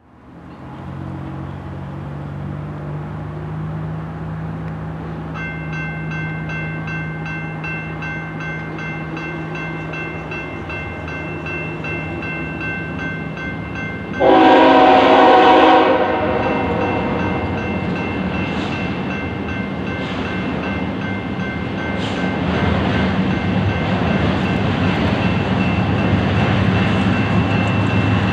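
Diesel-led freight train approaching with a low engine rumble and a steady high-pitched tone, then one loud locomotive horn blast of about a second and a half about halfway in. The rumble and rail noise grow louder afterwards as the train draws near.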